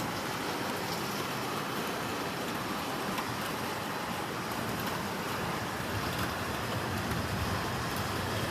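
Heavy rain pouring down in a thunderstorm: a steady, even rush of rainfall.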